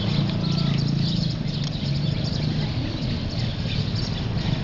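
Many small birds chattering and chirping together in a dense, continuous chorus, over a steady low hum.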